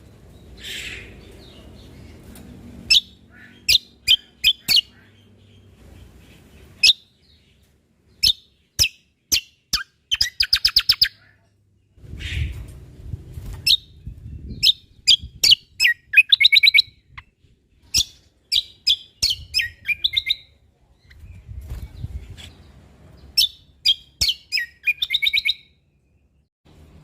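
Cucak kombo (kecial kombok) singing: sharp, high single chirps scattered between fast rattling trills of rapid repeated notes. A low rumble of background noise comes and goes beneath the song.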